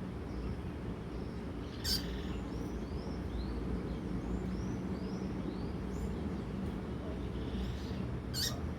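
Female double-collared seedeater (coleiro) calling: a run of short, high, arched peeps about two a second, with two sharper, louder chirps about two seconds in and near the end. A steady low hum lies underneath.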